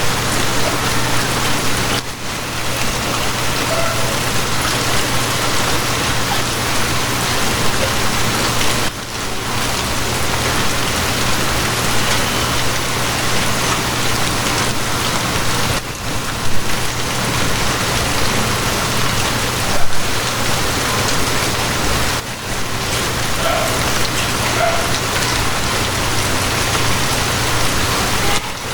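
Steady heavy rain, a dense even hiss of drops on surfaces, over a constant low hum. The rain briefly dips in level about every six to seven seconds.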